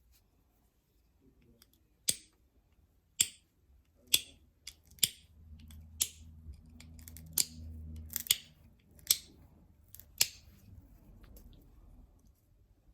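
Novaculite being flintknapped: about ten sharp, high clicks spaced roughly a second apart as small flakes snap off the stone, with a faint low rumble partway through.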